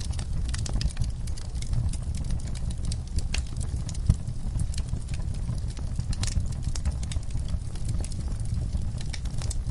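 Wood fire burning in a fireplace, crackling with irregular sharp pops over a steady low rumble of the flames, with one louder pop about four seconds in.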